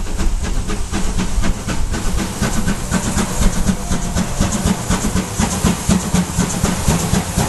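Steam locomotive chuffing: a fast, even run of hissing chuffs, several a second, over a low rumble.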